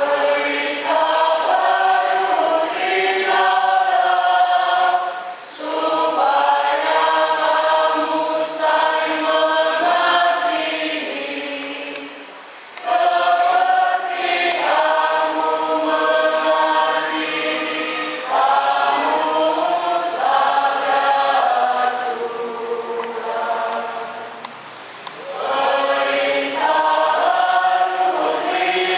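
Church choir singing, in long phrases with a few brief breaks between them.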